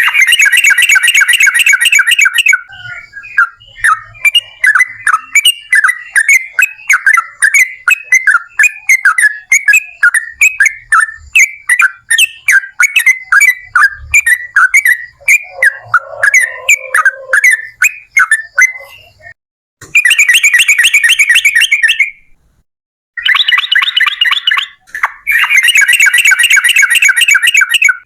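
Yellow-vented bulbul (trucukan) singing a long, loud song. Rapid rattling trills open it, a long run of quick separate chirping notes follows, and several more dense trill bursts come near the end.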